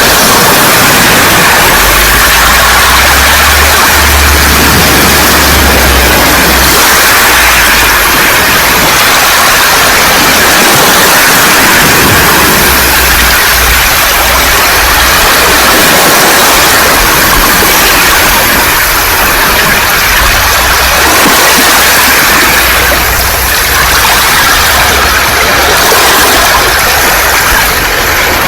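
Waves washing over a beach of round pebbles (mongdol), a loud steady hiss of surf and rattling stones, with an uneven low rumble underneath.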